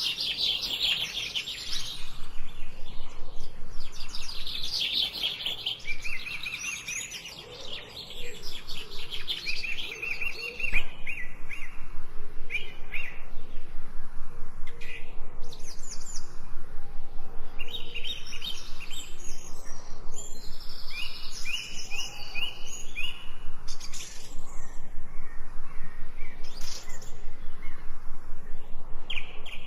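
Several songbirds singing and chirping in rapid, overlapping trills and repeated high notes.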